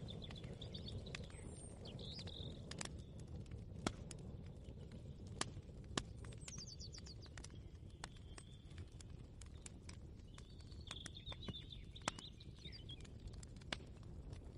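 Ambient kitchen-atmosphere soundscape: a steady low rumble with scattered sharp clicks and knocks, and short chirping bird calls several times, one at about a second in, one near the middle and one near the end.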